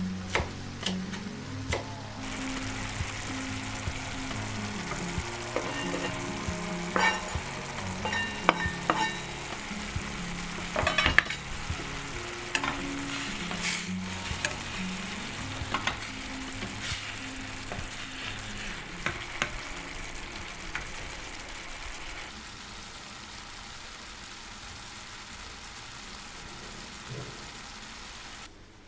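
Food sizzling in a frying pan, with clicks and scrapes of a utensil stirring it. The sizzle starts about two seconds in, eases off after about twenty seconds and stops just before the end.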